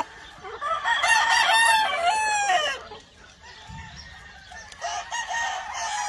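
A gamefowl rooster crows once, a long call of about two seconds starting about a second in, followed by fainter clucks and calls from other chickens.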